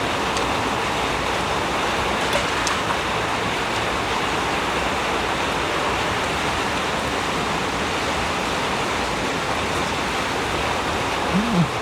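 Heavy storm rain pouring down, a steady even rush with no let-up. A brief low rising-and-falling sound comes near the end.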